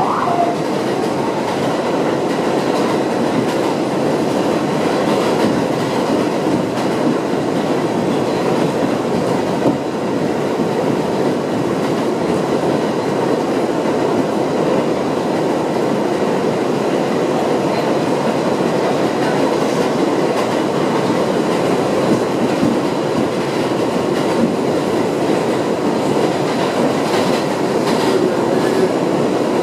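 Steady running noise inside an R62A subway car under way: wheels rolling on the rails, with a few clicks over the track near the end.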